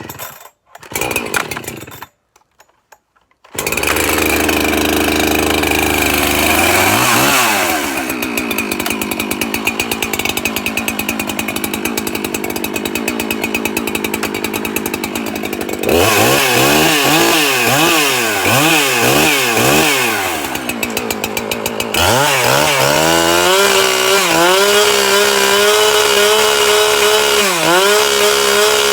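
Husqvarna 365 two-stroke chainsaw, 65cc. A few short bursts come as it is started, and it catches about three and a half seconds in. It is then revved up and down on the throttle several times, and near the end it is held at high revs with brief dips.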